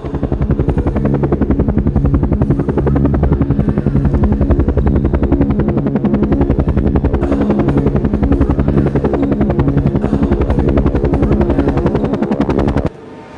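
Helicopter rotor chopping: a loud, fast, even beat over a low hum that starts suddenly and cuts off abruptly near the end.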